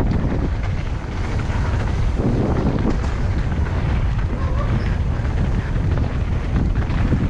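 Wind buffeting the microphone and the rumble of a mountain bike rolling fast down a dirt downhill trail, steady throughout.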